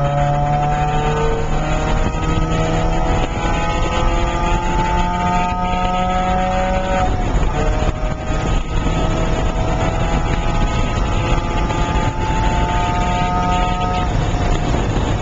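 Porsche 968's 3.0-litre four-cylinder engine under acceleration, heard from inside the cabin. Its pitch climbs steadily through a gear, drops at an upshift about seven seconds in, climbs again, then falls away near the end.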